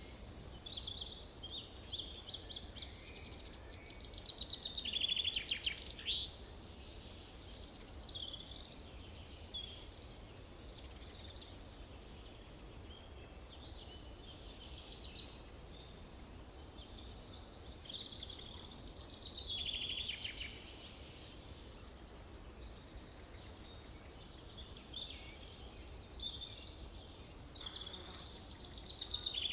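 Several birds chirping and singing over one another in a forest, with short calls and fast trills. The trilling swells louder about five seconds in, again around twenty seconds, and near the end, over a faint low rumble.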